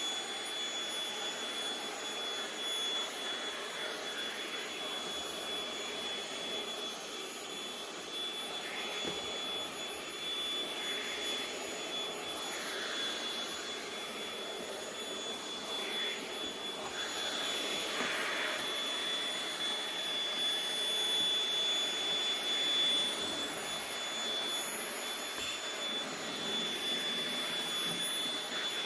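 Vacuum cleaner running steadily, a constant high whine over a wide hiss of rushing air.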